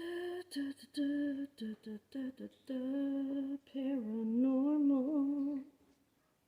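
Humming: a short tune of clipped notes, then longer wavering, gliding notes, stopping about five and a half seconds in.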